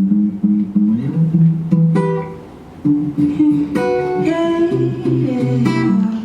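Acoustic guitar strumming chords as a song's intro, with a short break about two and a half seconds in before the chords resume.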